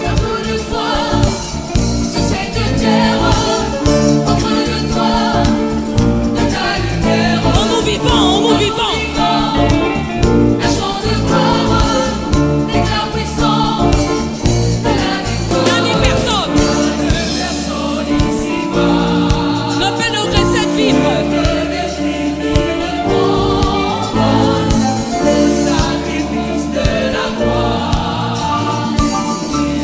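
Upbeat gospel song sung by a choir with band accompaniment and a steady bass beat.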